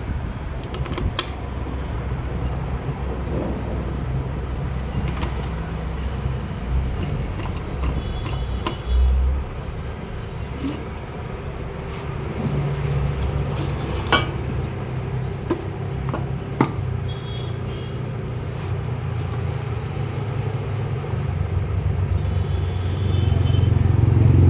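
Steady low rumble of motor traffic, with a few sharp clicks and knocks scattered through it and a dull thump about nine seconds in.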